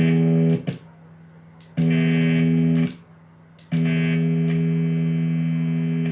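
Electric guitar through effects pedals and a Marshall AVT50 amp, sounding a held note or chord three times. Each one is cut off abruptly, with sharp clicks in the short gaps between.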